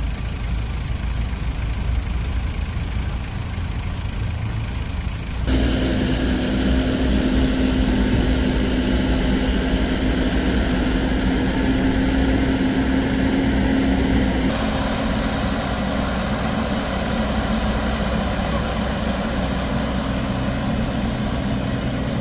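Bimo Evo 102 rice combine harvester's engine running at low speed, then about five seconds in it steps up to a louder, higher-revving note with a steady whine. The sound changes again around the middle and carries on at a fairly high level.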